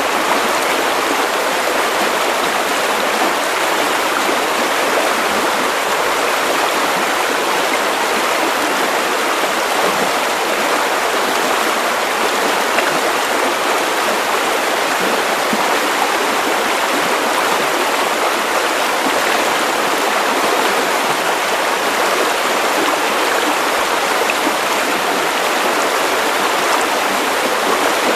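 Steady white noise for sleep: an even, unchanging hiss with little deep bass.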